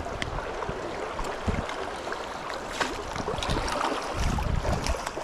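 River water rushing, with wind gusting on the microphone in low rumbles and scattered short ticks, while a hooked brown trout is being played.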